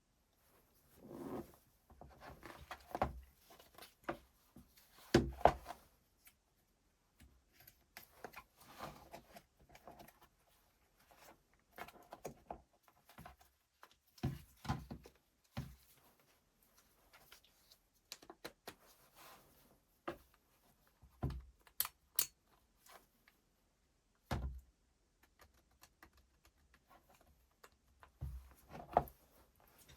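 Irregular hand-handling noises at a workbench: scattered clicks, taps and short rustles of small parts being worked on, one sharp click about five seconds in and a bright tick a little past twenty seconds.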